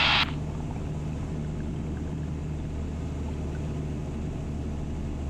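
Cessna 172's piston engine and propeller running steadily in flight, heard from inside the cabin as an even low drone.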